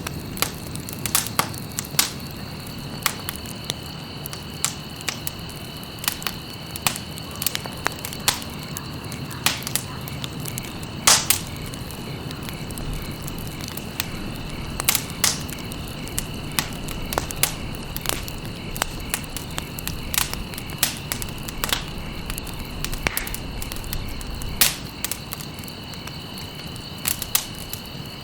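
Campfire burning, with irregular sharp crackles and pops several times a second over the low, steady rush of the flames. A steady high-pitched tone runs underneath throughout.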